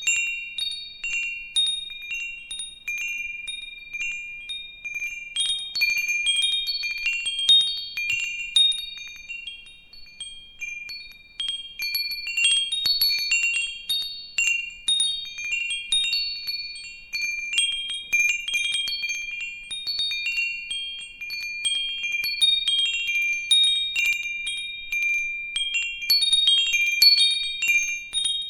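Wind chimes ringing, their high metal tones struck irregularly and overlapping, with a brief lull about ten seconds in.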